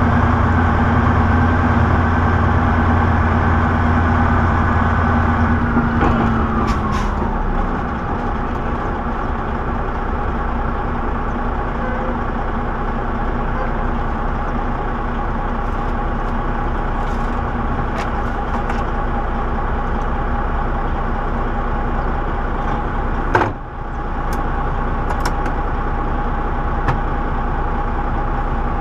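Semi truck's diesel engine running, heard from inside the cab. About six seconds in the engine note drops as the revs fall, then it runs steady at the lower pitch. One sharp knock comes about two-thirds of the way through.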